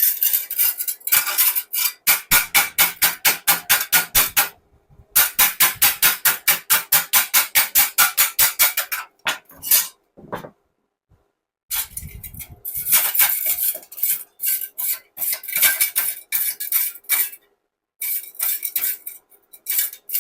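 Kobe 315 Pro MIG welder arc on thin stainless steel, crackling in rapid even pulses, about five or six a second, in several runs broken by short pauses.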